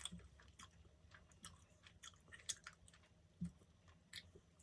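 A person quietly chewing chewy mochi bread, with small sticky mouth clicks scattered irregularly through.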